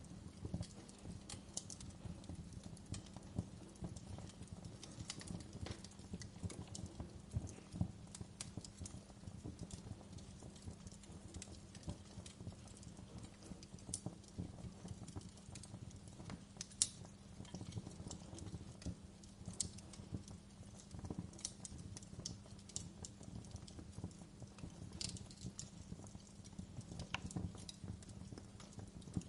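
Wood fire burning in a fireplace, crackling with irregular pops and snaps over a steady low rumble; one sharper pop about seventeen seconds in.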